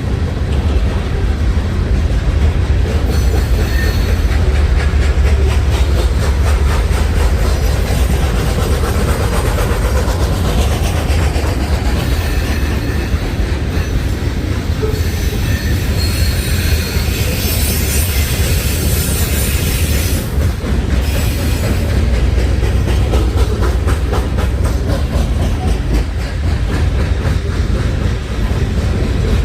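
Freight train cars rolling steadily past, with a heavy low rumble and continuous clickety-clack of wheels over the rail joints; the high wheel-on-rail noise brightens for a few seconds in the middle.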